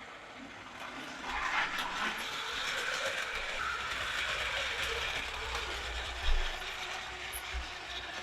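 Battery-powered Plarail toy train running on plastic track, its small motor and gearbox whirring steadily from about a second in, with a short knock about six seconds in.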